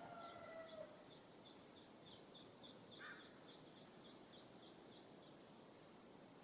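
Faint wild birdsong: a harsh, cawing call ending about a second in, over a steady series of short high chip notes, about three a second, with a brief high trill a little past the middle.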